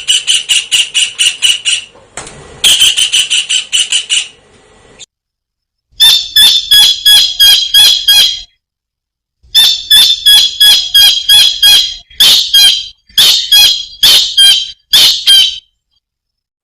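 Tengkek udang (small kingfisher) calling: rapid runs of shrill, high notes, about seven a second. The runs come in bursts of a second or more, broken by two short silences near the middle.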